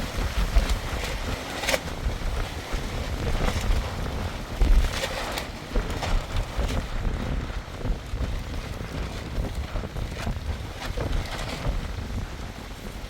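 Strong wind gusting over the microphone: a steady rushing noise with a buffeting low rumble, broken by scattered sharp clicks and knocks.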